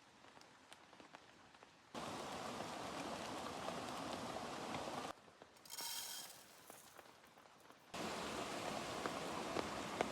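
Steady outdoor hiss, rain-like, that cuts in and out in sections separated by near-silent gaps, with scattered light ticks and a brief high-pitched patch in the middle.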